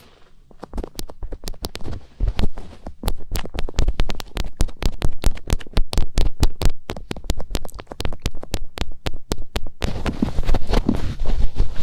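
ASMR finger ear-cleaning: fingertips rubbing and tapping against the ear of a binaural microphone, close up. It is a rapid, irregular run of crackling taps and scratches that turns into denser, continuous rubbing about ten seconds in.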